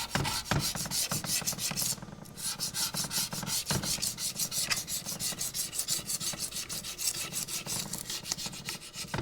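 Rapid back-and-forth hand strokes rubbing on metal as old paper gasket is cleaned off a tractor PTO housing's mating surface. The strokes come about six a second, with a brief pause about two seconds in.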